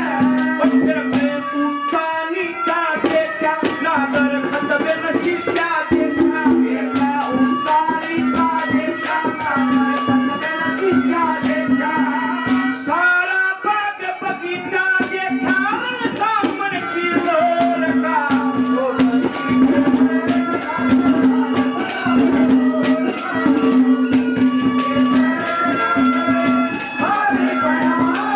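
Instrumental passage of Haryanvi ragni folk music: a wavering melody over a held drone note, driven by fast hand-drum strokes.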